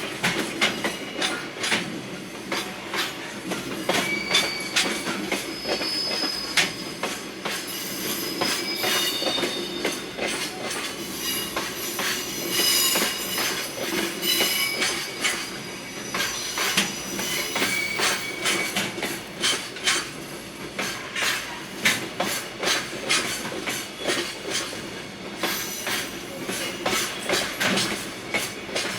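Freight train of Koki container wagons rolling slowly into a station: a steady rumble, rapid clicks of the wheels over rail joints, and high steel wheel squeal that comes and goes, loudest about halfway through.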